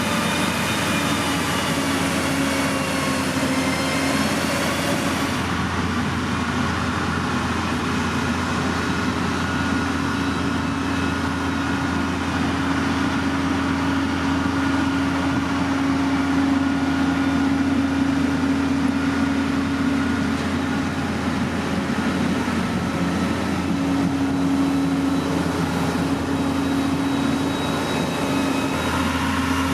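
Heavy earthmoving machinery engine running steadily, with a constant low hum. The higher-pitched noise drops away about five seconds in.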